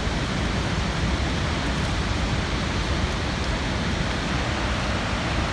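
Skógafoss waterfall, a steady, even rushing roar of falling water.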